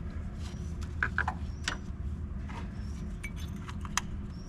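Metal battery post cleaner worked on a corroded lead battery terminal post: scattered short clinks and scrapes, the sharpest about a second in and just before four seconds.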